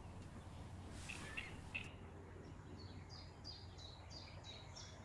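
Small bird singing: a few high chirps, then from about halfway a run of short repeated high notes, about three a second, over a faint steady low hum.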